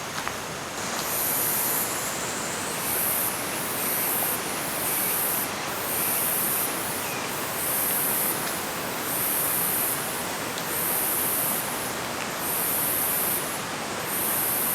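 Steady rushing of a mountain stream. About a second in, a high-pitched buzzing starts over it, pulsing on and off roughly once a second.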